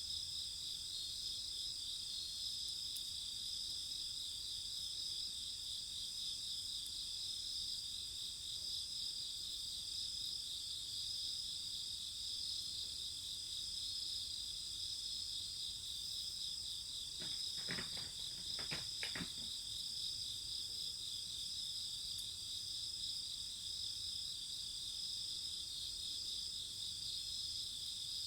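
Insects chirping in a steady, pulsing high-pitched chorus. Three short soft knocks come close together a little past the middle.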